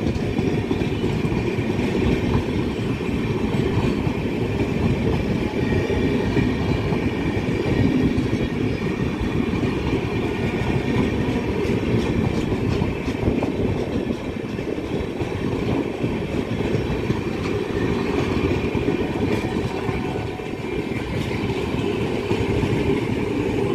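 A rake of LHB passenger coaches rolling past on the track: a steady, loud noise of steel wheels running on the rails.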